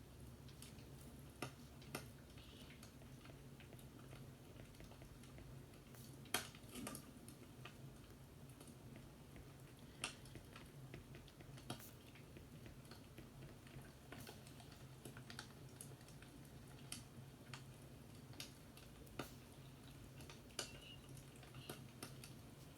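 Wood fire crackling quietly: irregular sharp pops and snaps over a steady low hum, one louder pop about six seconds in.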